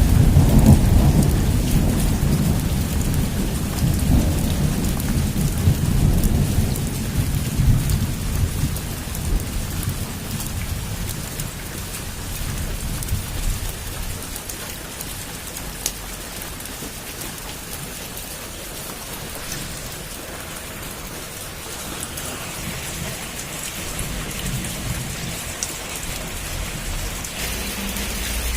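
Heavy rain pouring steadily on a rooftop, with a long roll of thunder at the start that dies away over about ten seconds. A fainter rumble of thunder comes again near the end.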